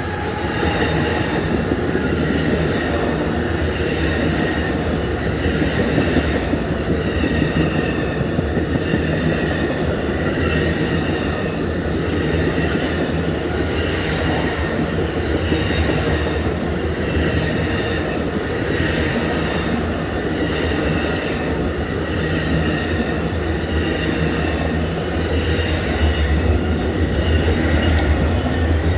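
Amtrak Auto Train cars rolling past steadily, wheels clicking over the rail joints with a thin, wavering high wheel squeal under a continuous low rumble.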